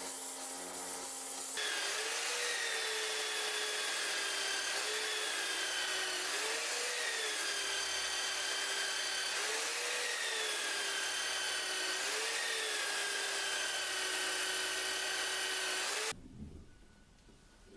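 A small high-speed power tool running under load with a steady whine. The pitch rises briefly every two to four seconds as the load eases. The whine starts abruptly about a second and a half in and cuts off suddenly near the end.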